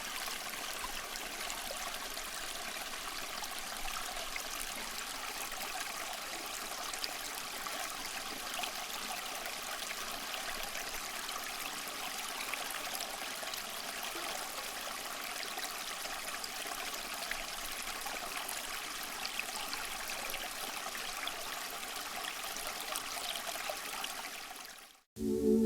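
Water trickling and splashing steadily down a small cement tabletop waterfall fountain fed by a submersible pump. The sound fades out near the end.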